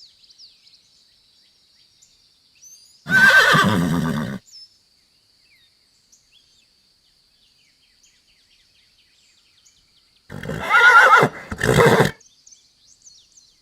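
Horse whinnying twice: one call about three seconds in and a second, broken call near the end. A faint steady high-pitched drone runs underneath.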